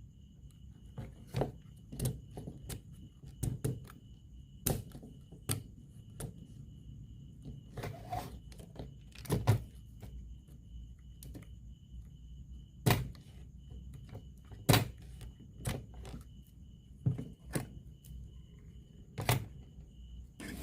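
Irregular clicks and knocks of hard parts and tools being handled during bench repair of a portable radio-cassette player, about one every second, over a faint steady high-pitched whine.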